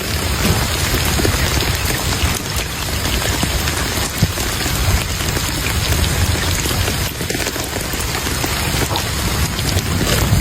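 Steady rain falling: a dense, even patter that holds at one level throughout.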